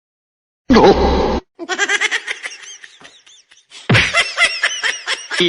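After a brief silent gap, a short loud cry with a falling pitch, then a person laughing in quick high-pitched bursts.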